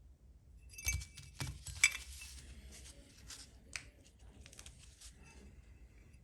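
Small kit parts being handled: a run of light clicks, clinks and rustling from about a second in until near the end, with the sharpest click a little under two seconds in.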